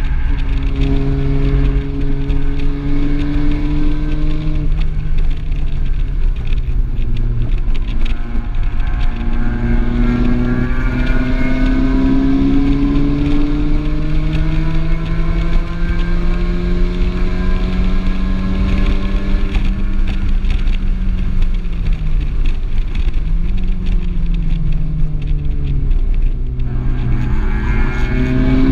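Volkswagen Golf R's turbocharged four-cylinder engine heard from inside the cabin at speed on track. The engine note holds steady, drops off about five seconds in, then climbs slowly through a long pull until about twenty seconds, falls away, and starts rising again near the end.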